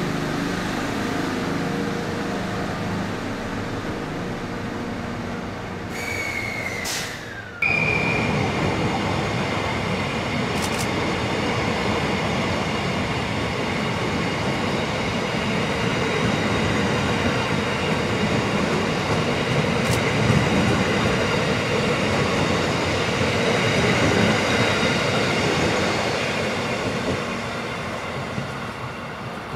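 Carriages of an E331 series electric train rolling slowly past on the rails while being towed, with wheels rumbling and a steady high wheel squeal. There is a short falling squeal and a sudden break about seven seconds in.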